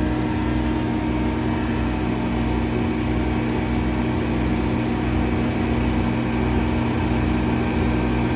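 An engine running steadily at constant speed, a steady hum.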